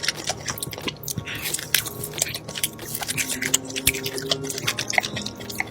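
Close-up sounds of a person chewing food, with dense, irregular wet clicks and crackles.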